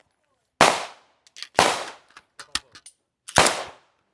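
Three single gunshots at uneven intervals, about a second and then nearly two seconds apart, each with a short echoing tail and faint clinks between them.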